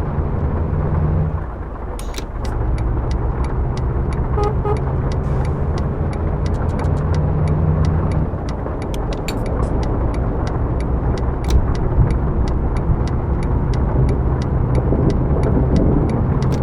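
Scania K124 bus's inline-six diesel engine running, its pitch shifting a few times with engine speed. Sharp ticks sound over it, coming about three a second in the latter half.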